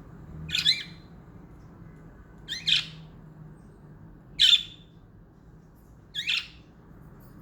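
Pet budgerigar giving four short, scratchy calls, about two seconds apart.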